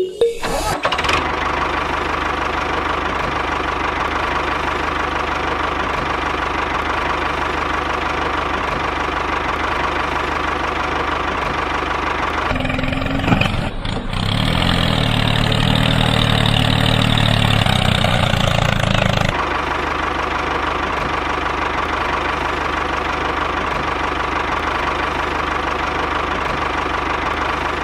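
Small motor of a homemade miniature tractor running steadily with a steady hum. From about halfway in, for some seven seconds, the sound turns heavier and lower and a little louder, then returns to its earlier note.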